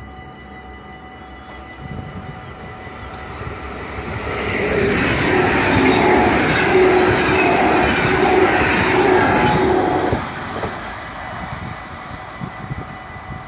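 NS double-deck electric passenger train passing the level crossing at speed. It grows loud from about four seconds in, stays loud for several seconds, and cuts off abruptly about ten seconds in as the last carriage passes. The crossing's warning bells ring steadily throughout.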